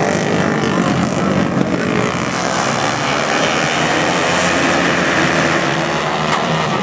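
Flat track racing motorcycles running at racing speed: a loud, steady engine drone with no break.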